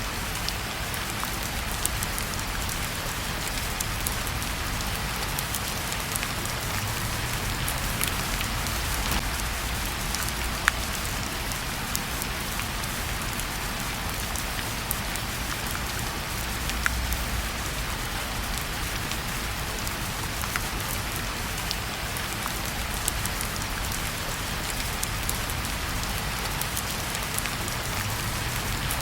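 Steady rain falling, mixed with a fireplace crackling: scattered sharp pops over an even hiss and a low rumble, with one louder pop about ten seconds in.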